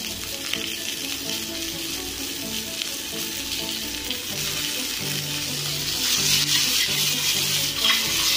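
Sliced mushrooms, onion and garlic frying in olive oil in a hot pan: a steady sizzle that grows louder about halfway through as they are stirred. Faint background music plays underneath.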